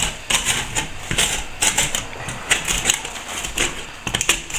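A hand tool scraping at old plaster in short, quick, repeated strokes, a few a second, raking out hairline cracks to open them up for filling.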